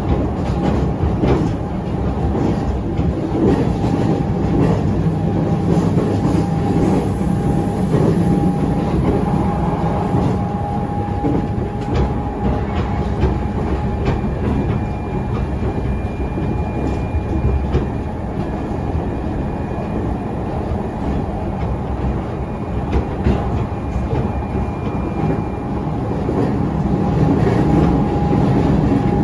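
E531 series electric train running at speed, heard from inside the passenger car: a steady low rumble of wheels on rail with scattered clacks from rail joints and a steady whine throughout.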